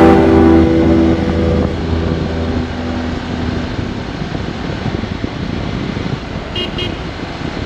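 Motorcycle running on the move with wind noise buffeting the microphone, a steady rough rumble. Electronic music fades out over the first few seconds.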